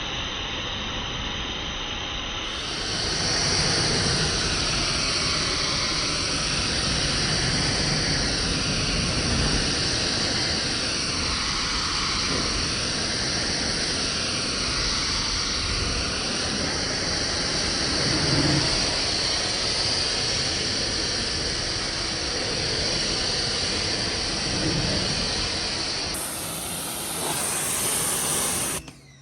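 Water spray hissing steadily against a car's body panels while the car is washed, its tone shifting slowly as the spray is swept across the surfaces. It gets louder a couple of seconds in and cuts off abruptly near the end.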